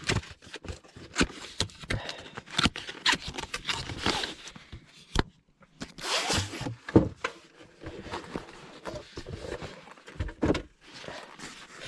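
Handling noise from a handheld car diagnostic tool being got out and hooked up: irregular clicks and knocks with stretches of rustling, scraping noise, a few of them a second or so long.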